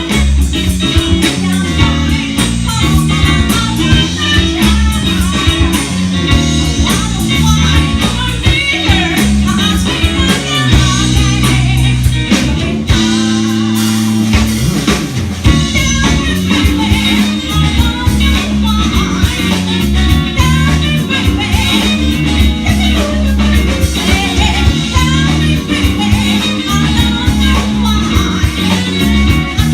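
Guitar-led rock band playing a song with singing. A little before halfway the band drops back briefly to a held low note, then the full sound resumes.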